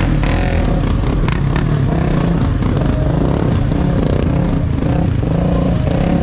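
Car engines running loudly close by, a dense steady rumble with a few sharp cracks in the first two seconds.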